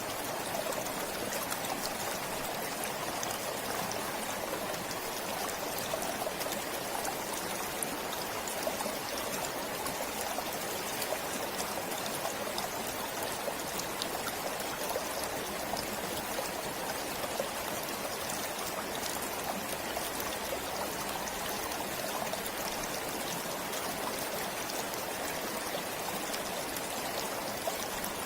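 Forest stream flowing steadily, an even, continuous rush of running water.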